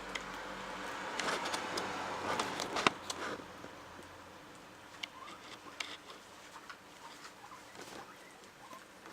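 Guinea pigs rustling through and nibbling fresh grass: a crackling rustle with a sharp click about three seconds in, then softer, scattered nibbling ticks.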